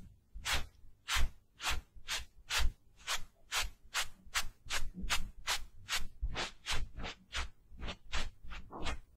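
Quick, even rubbing strokes of a makeup tool, about two and a half a second, each short and scratchy.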